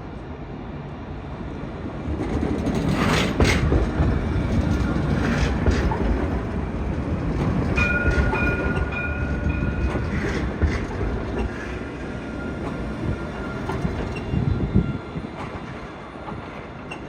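Tram running on rail track: a low rumble swells about two seconds in, with wheels clicking over the rails, a steady high two-tone squeal for about two seconds midway, and the sound fading near the end.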